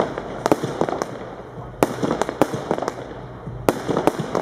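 Bon Fireworks 'The Emperor' fireworks cake firing: a string of sharp bangs as its shots go off, some close together and some with short gaps, with crackling noise between them.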